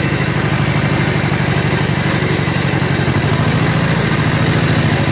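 Kubota L1500 compact diesel tractor engine running steadily with a rapid, even throb.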